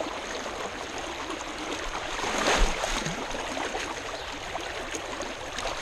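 Creek water rushing over shallow rapids in a steady hiss, with a brief louder rush about two and a half seconds in.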